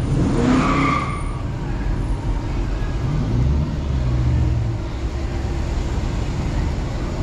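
Dodge Challenger R/T's 5.7-litre Hemi V8 running as the car moves at low speed, its note briefly rising and getting louder about three seconds in as it picks up throttle. A short higher-pitched sound comes in the first second.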